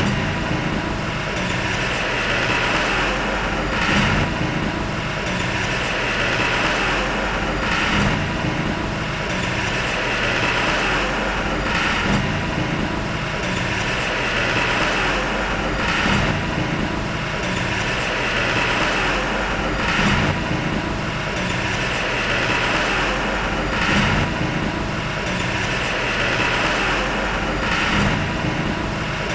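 Heavy diesel earthmoving machinery running steadily, with the sound swelling about every four seconds.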